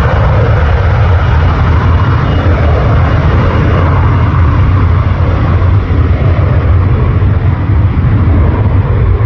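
Jet engine noise from a landing Boeing 777-300ER's GE90 engines: loud and steady with a heavy low rumble, the higher hiss fading slowly toward the end.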